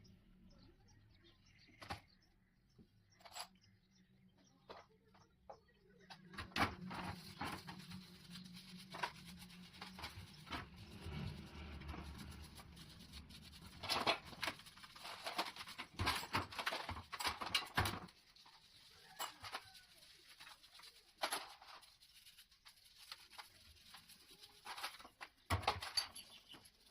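Irregular clicks and knocks, the sharpest clustered past the middle and again near the end, with a low hum for a few seconds in between.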